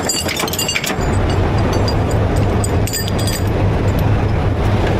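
Heavy rotator tow truck's diesel engine running under load as its hydraulics work the lift, its steady drone rising about a second in. Short metallic clinks of chain or rigging come near the start and again around three seconds in.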